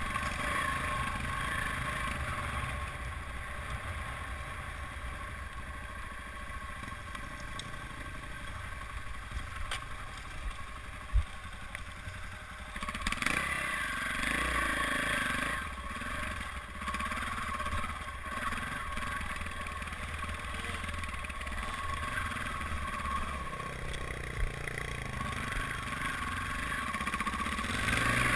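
Dirt bike engine running as it is ridden over rough trail, the revs rising and falling with the throttle. A single sharp knock comes about eleven seconds in.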